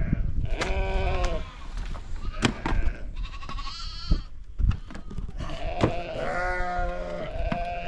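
Sheep and goats of a nomad flock bleating, several overlapping calls with a long wavering bleat near the end, among scattered sharp clicks and knocks.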